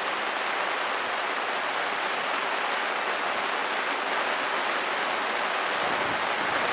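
Steady rain from a passing squall pattering on a sailboat.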